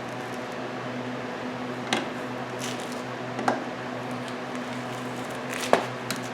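Three short sharp clicks, spaced a second and a half to two seconds apart, from torque-wrench work on the clutch bolts of a VW boxer engine, over a steady low hum.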